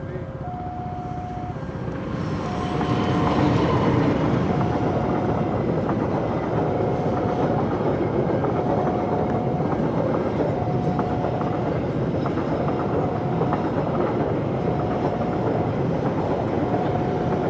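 A train passing with a steady rumble and wheel clatter. Over it, a single tone sounds for about a second roughly every two seconds.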